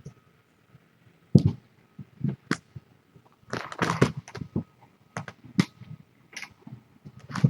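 Irregular knocks, taps and brief rustling, such as things being handled and set down. The sharpest knocks come about a second and a half in and again near the end.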